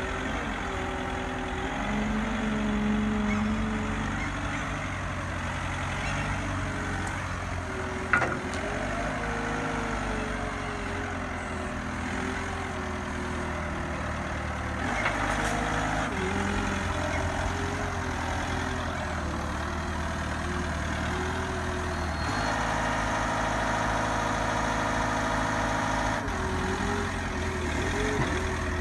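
Truck's diesel engine running steadily at low speed, its note shifting and a little louder from about 22 seconds in, with one sharp click about eight seconds in.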